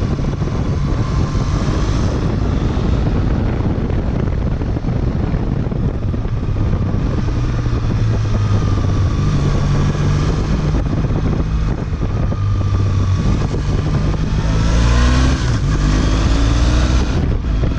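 Triumph Bonneville parallel-twin engine running steadily under way. About fifteen seconds in, the engine note rises as it revs up.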